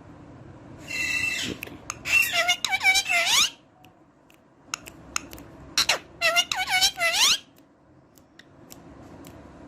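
Pet parrot calling: a harsh squawk about a second in, then two bouts of quick whistled chirps, each note ending in a rising glide, the first around two to three seconds in and the second around six to seven seconds in.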